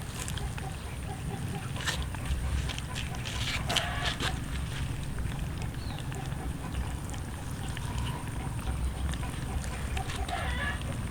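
Cats chewing and crunching roast chicken, with many small irregular clicks and smacks.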